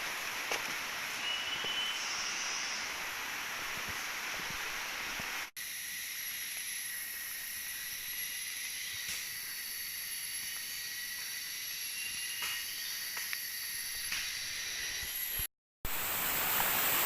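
Outdoor forest ambience: a steady high hiss with faint sustained high tones and a few brief faint chirps. It breaks off for a moment about five and a half seconds in and again near the end, at edit cuts.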